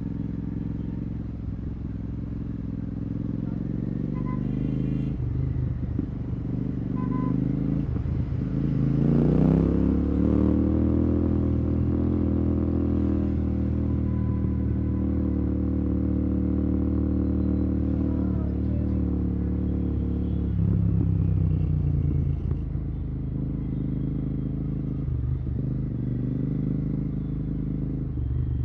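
Royal Enfield Continental GT 650's parallel-twin engine running through a Red Rooster aftermarket exhaust with no dB killer. The note rises sharply about eight seconds in as the bike accelerates, holds steady for about ten seconds, then falls back to a lower note around twenty seconds in.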